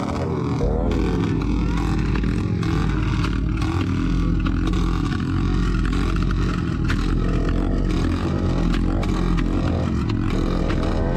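Motorcycle engine running with some revving, alongside clattering.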